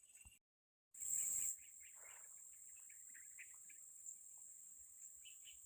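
Steady high-pitched insect drone of crickets or cicadas, with faint scattered bird chirps. The sound drops out for about half a second near the start, then the drone comes back louder for a moment before settling.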